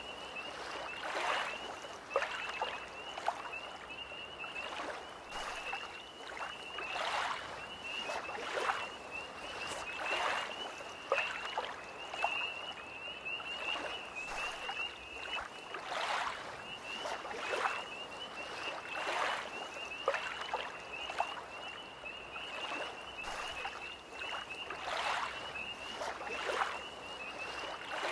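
Small lake waves lapping and splashing every second or two, under a continuous high, pulsing trill from tree frogs.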